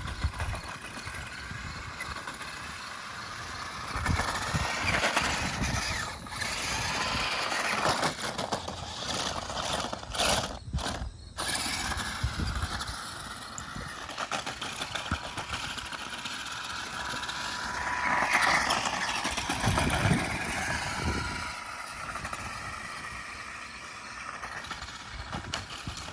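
Electric motor of a waterproof radio-controlled monster truck whining, the pitch rising and falling as it speeds up and slows, over a steady hiss. The whine cuts out briefly about ten seconds in.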